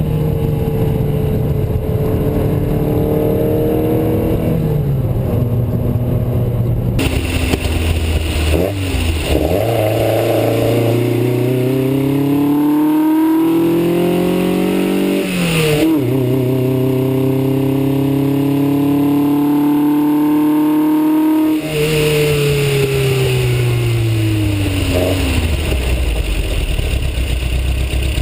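Matra Murena 2.2's four-cylinder engine, fitted with a Piper 3777 fast-road camshaft, pulling hard under acceleration: its pitch climbs, drops suddenly at gear changes, and glides down as the car slows after the throttle is lifted in the second half.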